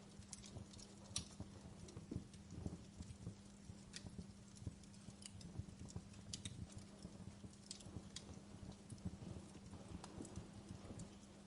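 Wood fire crackling: irregular sharp pops and snaps, a few a second, over a soft low rumble of the flames and a faint steady hum.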